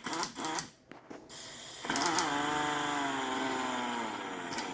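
Pneumatic power tool run briefly with the compressor switched off: after a few clicks, its motor whines for about three seconds, the pitch falling steadily as the leftover air pressure runs out.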